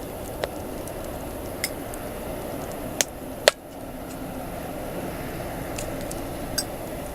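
Wood campfire burning with a steady hiss and irregular sharp crackles and pops, the loudest pop about three and a half seconds in.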